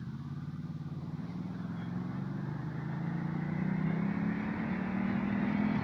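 Ducati Multistrada 1200's V-twin engine running under way, its note and loudness rising gradually as the bike gathers speed.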